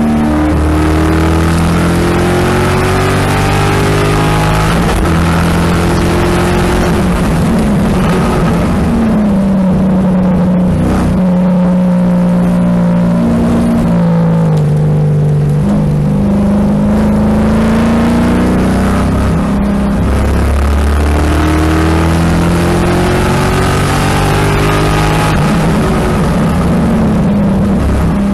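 The 2007 Corvette C6 Z06's 7.0-litre LS7 V8, heard from inside the cabin at track speed. Its note climbs under acceleration and drops under braking and downshifts several times, over a steady rush of road noise.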